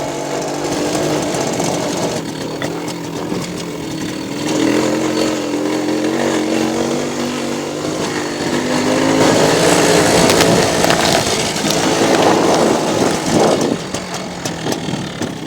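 Motorcycle engine running while riding on a rough dirt track, its pitch rising and falling as the throttle changes. The second half turns louder and noisier.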